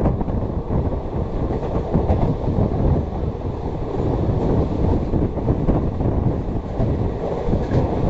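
Passenger express train running along the track, heard from on board: a steady rumble of the coach's wheels on the rails.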